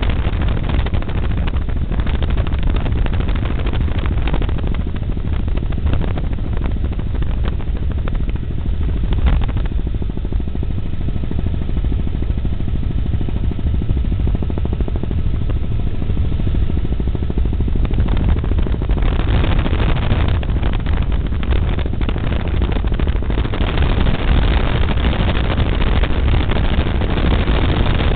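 Helicopter in flight, heard from inside the cabin: a loud, steady drone of rotor and engine, heaviest in the deep end.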